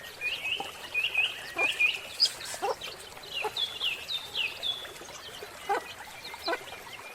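Chickens calling: a quick run of short, high, falling peeps, with lower calls scattered among them.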